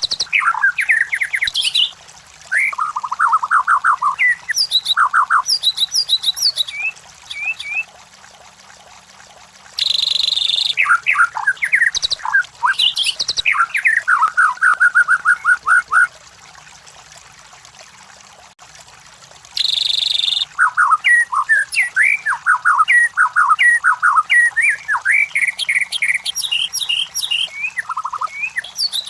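White-rumped shama (murai batu) singing: rapid, varied whistled phrases in three bouts separated by pauses of a few seconds, each bout opening with a short harsh buzz.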